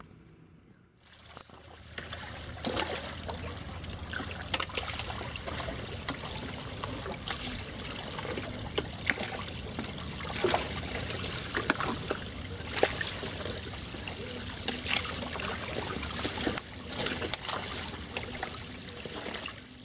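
Water trickling and splashing, with many small sharp splashes over a steady wash, starting about a second in.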